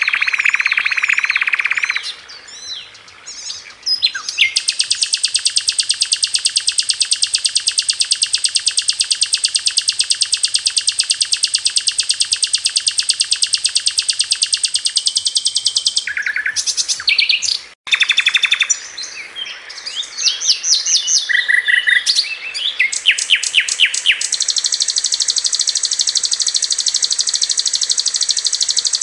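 Sikatan londo flycatcher singing a high, fast, rattling trill of rapidly repeated notes, the 'tembakan' phrase, held in long even runs. Shorter chirps and quick note groups come between the runs, with a brief break about two-thirds of the way through.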